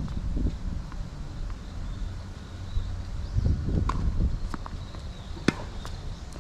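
Wind buffeting the microphone, with a few sharp tennis ball impacts on racket and hard court, the loudest about five and a half seconds in.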